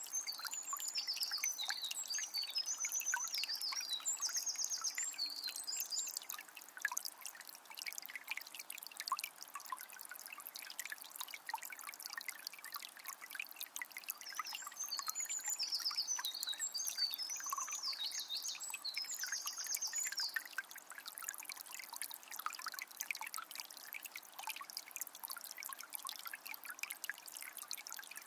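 Calm forest river trickling and babbling steadily, with a songbird singing a run of high, rapid trilled phrases at the start and again about halfway through.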